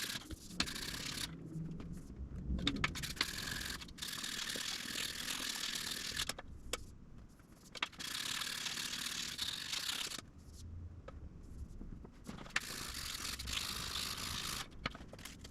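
Sandpaper scraping back and forth over the wooden fingerboard of a fretless Fender Precision Bass in long, even strokes, with short breaks between them, about one stroke every two seconds.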